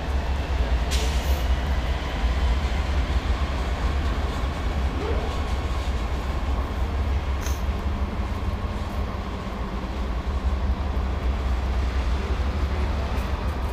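Freight train rolling past: empty tank cars and a covered hopper making a steady, heavy low rumble of wheels on rail, with a few sharp clicks, as the trailing GE Dash 9 diesel locomotive goes by at the start.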